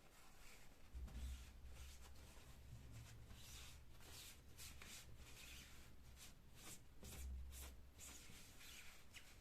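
Faint rubbing and rustling with a run of light clicks, as of things being handled by hand, over a low hum.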